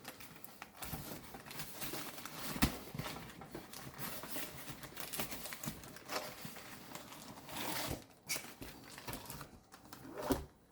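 Plastic packaging and paper rustling and crinkling as items are handled and unpacked, with scattered small clicks and taps and one sharper knock a few seconds in.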